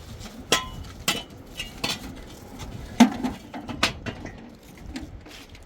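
Several irregular sharp metallic clinks and knocks, a few of them ringing briefly, the loudest about three seconds in.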